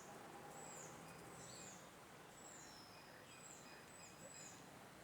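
Faint bird chirps: short, high calls that each slide downward, repeated about once or twice a second over a quiet background.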